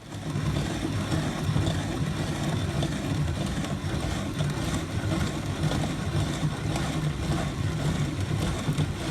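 Steady, engine-like mechanical drone that starts abruptly.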